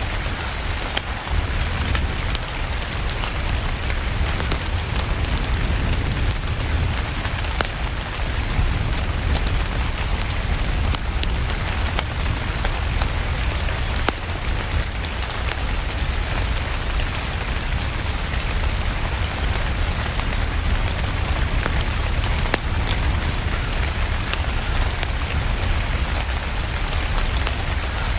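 Steady rain mixed with a crackling wood fire: an even rain hiss over a deep low rumble, with many small sharp crackles scattered throughout.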